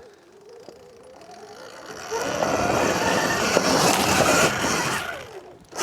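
Surron Ultra Bee electric dirt bike riding off: faint at first, then for about three seconds a loud rush of tyres on loose ground with a thin motor whine over it, fading just before the end.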